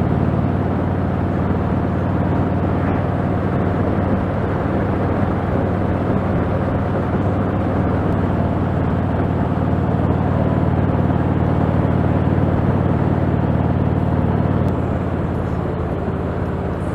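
Motorcycle engine running steadily on the road, with a rush of wind noise; the sound drops a little about fifteen seconds in.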